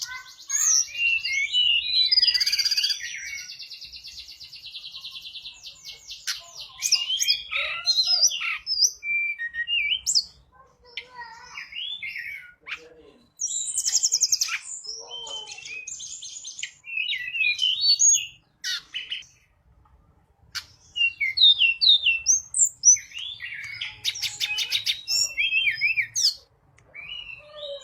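Tledekan gunung songbird singing in a long run of varied chirps, fast trills and warbled phrases, with a few short pauses between bursts.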